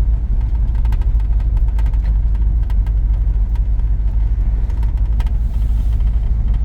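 1983 GMC C2500 pickup's V8 engine running steadily with low road rumble, heard from inside the cab while driving.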